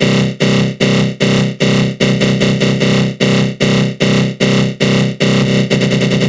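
Synthesized aggressive growl sound effect from the GMS synth in FL Studio Mobile, heavily flanged: a harsh buzzing drone that pulses about two and a half times a second, then breaks into a faster stutter near the end.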